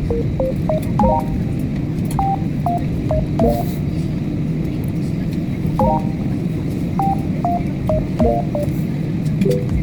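Steady low drone of an airliner cabin in flight, with a light tune of short, high, clipped notes in small groups playing over it.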